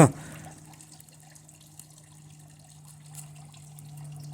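Faint sizzling and crackling of a circuit-board chip burning as high current from a lead-acid battery runs through it, its metal melted to liquid, over a steady low hum.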